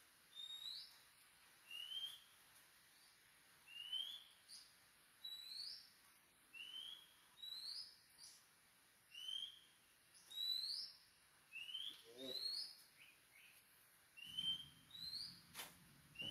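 A bird singing over and over: short rising whistled chirps about once a second, alternating between a lower and a higher note.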